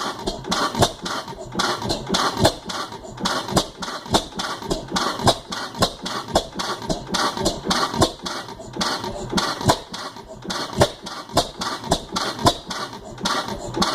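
15 HP Type A Joseph Reid gas engine running, with a steady beat of sharp knocks, about three a second, and some beats louder than others.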